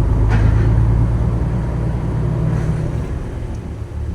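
Truck engine and road noise heard from inside the cab: a steady low drone that eases off about three seconds in.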